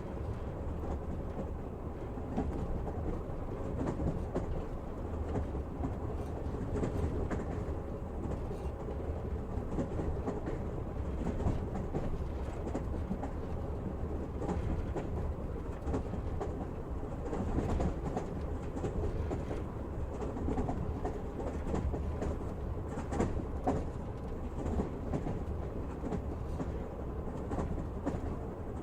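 Train carriage rolling along the track, a steady low rumble with rattling and the occasional click of the wheels over rail joints.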